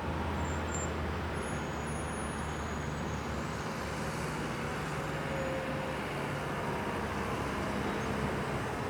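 Steady road traffic noise: a continuous rumble of vehicles with a low engine hum that shifts about three and a half seconds in.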